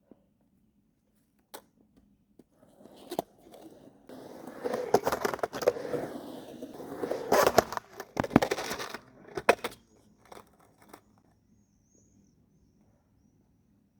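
A skateboard rolling and scraping for a few seconds, with sharp clacks and slaps of the board hitting the ground; the loudest of these come about two-thirds of the way through. A few lighter knocks follow before it falls quiet.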